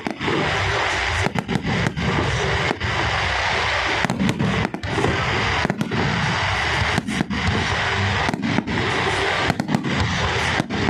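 Fireworks display: a dense, continuous barrage of bangs and crackling, with many brief dips in loudness.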